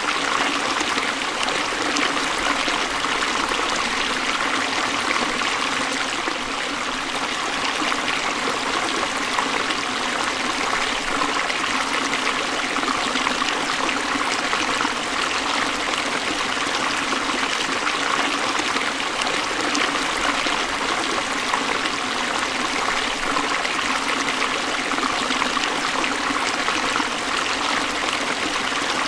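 Forest stream flowing steadily over rocks, a constant rush and trickle of water.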